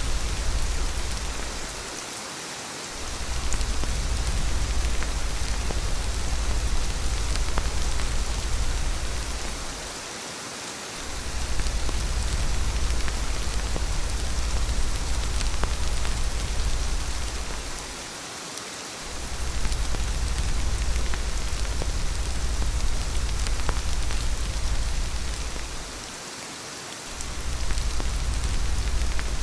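Steady rain hissing, with faint scattered drop ticks and a deep low rumble beneath it. The rumble drops away for about a second roughly every eight seconds, four times in all.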